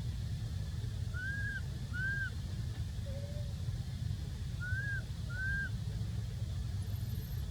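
Animal calls: two pairs of short rising-and-falling calls, with one lower call between them, over a steady low rumble.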